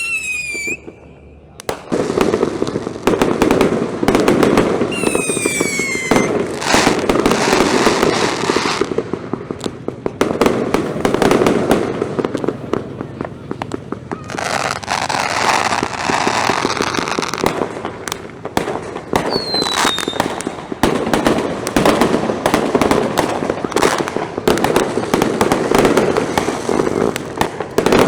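Fireworks and firecrackers going off without a break in a loud, dense crackling barrage. Three times a whistling firework gives a falling whistle: at the very start, about five seconds in, and about twenty seconds in.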